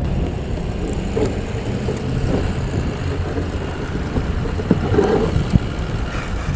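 Steady low rumble of a vehicle driving, heard from inside its cabin, with a few faint knocks about five seconds in.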